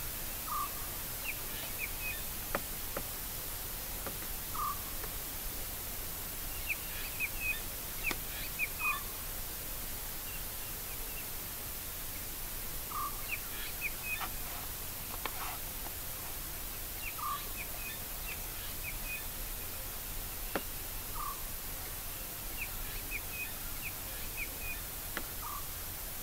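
Birds calling over a steady background hiss: one short call repeats about every four seconds, with quick runs of higher chirps in between.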